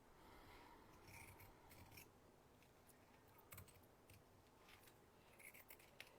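Pinking shears snipping through fabric: a few faint, irregularly spaced snips as they are worked around a curved pattern edge.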